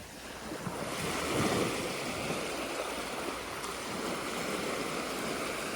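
Small waves washing onto a beach: a steady wash of surf that swells a little about a second in.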